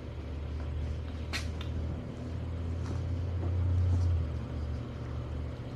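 A low rumble that builds and then drops off about four seconds in, with a sharp click a little over a second in and a few fainter clicks.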